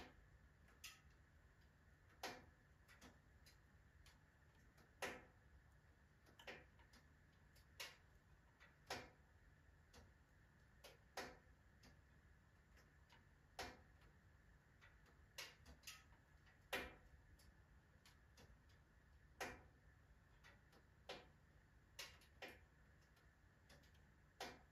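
Wood fire burning in a wood-burning stove, the logs crackling with irregular sharp pops about every second or two over a faint steady background.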